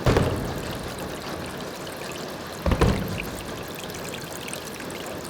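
Foley-made steady rushing of water like a stream, with two heavy low thumps about two and a half seconds apart: the first at the very start fading over about a second, the second near the middle.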